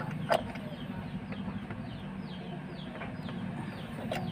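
Birds chirping in short falling calls, a few times a second, over a steady low hum. Two sharp clicks sound right at the start.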